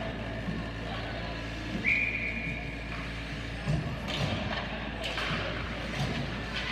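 Ice hockey game sounds: scattered knocks of sticks and puck over a steady low arena hum. About two seconds in comes a single steady referee's whistle blast, lasting about a second.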